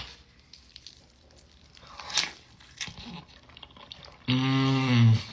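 Close-up chewing of a bite of cheeseburger, soft wet smacks and clicks of the mouth, then about four seconds in a long hummed "mmm" of enjoyment through a full mouth.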